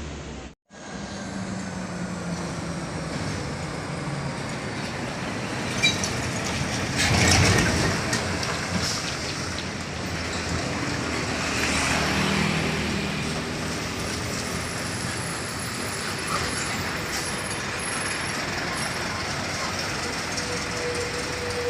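Road traffic with heavy trucks passing, a steady engine and tyre noise that swells about seven seconds in and again around twelve seconds. The sound cuts out for a split second just after the start.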